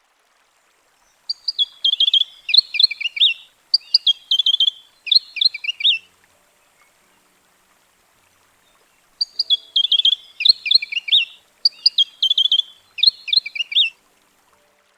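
Flame robin singing: two bouts of song, each of about four short phrases of quick, high, down-slurred whistled notes, with a pause of about three seconds between the bouts.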